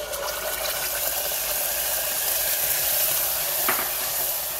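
Spiced yogurt sizzling steadily in hot ghee in a pressure cooker as it is poured in and stirred with a metal spatula. A single click about three and a half seconds in.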